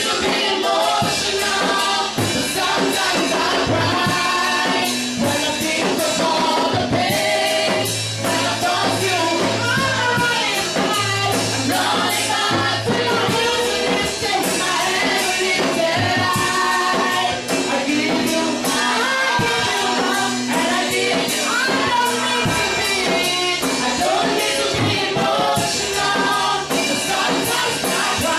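Gospel worship song: voices singing over a band with bass notes and a steady beat.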